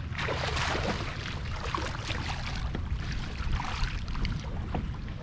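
Kayak moving on open water: a steady low wind rumble on the microphone, with swells of water hiss roughly every second and a half and a few light knocks.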